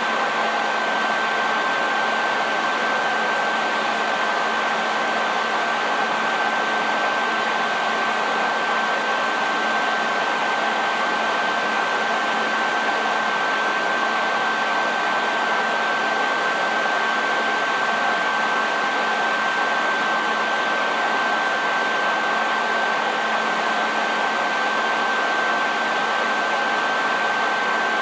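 Hair dryer running continuously, an even rush of blown air with a steady high whine from its motor and a faint low hum underneath.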